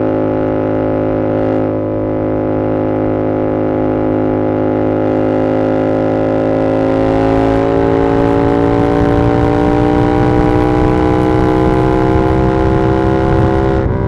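2022 Yamaha R7's 689 cc parallel-twin engine through an SC-Project CR-T exhaust, pulling at steady revs under way. About halfway through the revs begin to climb slowly as the bike accelerates, with a brief dip right at the end.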